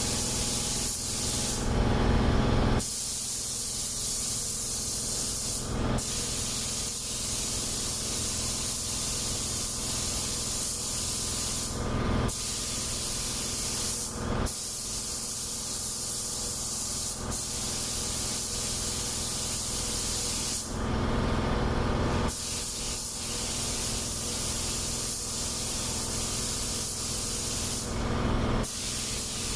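Compressed-air paint spray gun hissing steadily as a coat, likely the glossy top coat, goes onto the car body. The hiss cuts out briefly several times where the trigger is let off between passes, over a steady low hum.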